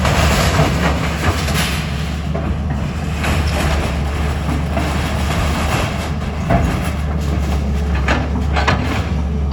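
A heavy engine running steadily with loose metallic rattling and clanking over it.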